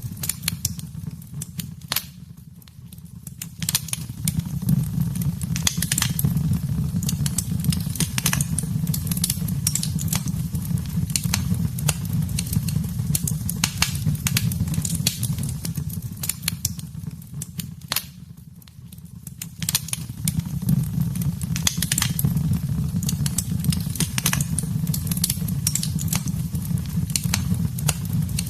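Wood fire crackling and popping in a fireplace: irregular sharp snaps over a steady low rumble of the flames. The sound dips twice, about two seconds in and again past the halfway mark, then comes back up.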